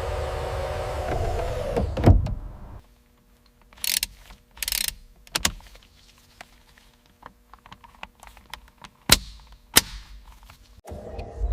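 A motor's low rumble stops after a loud thud about two seconds in. It is followed by short hisses, clicks and two sharp knocks, and the rumble starts again near the end.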